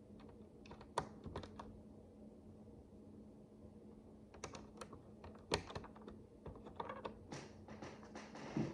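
Micro bricks clicking and tapping as the tiny plastic pieces are handled and pressed together. The clicks come scattered: a few about a second in, a cluster in the middle, and more frequent ones near the end.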